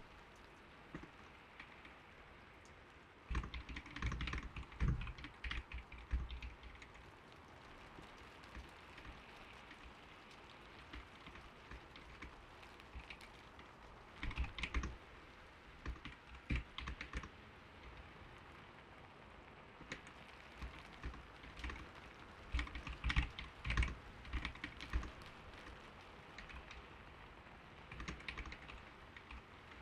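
Typing on a computer keyboard with a soft, "creamy" key sound, in several bursts of rapid keystrokes with pauses between them, over a steady soft patter of rain.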